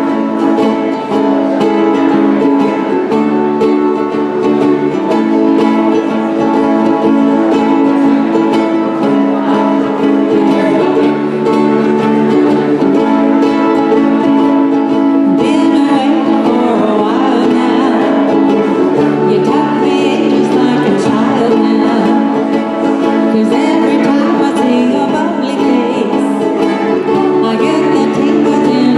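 Live acoustic music: steadily strummed chords on a plucked string instrument with a walking bass line, and a voice singing along from about halfway in.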